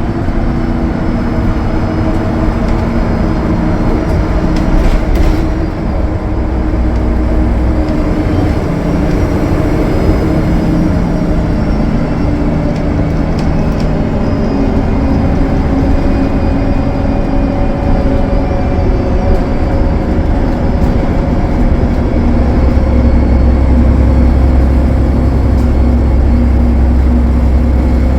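Cummins ISL9 diesel engine of a 2015 Gillig Low Floor bus running steadily at highway speed, with road noise and a faint high whine. The low rumble grows heavier in the last several seconds.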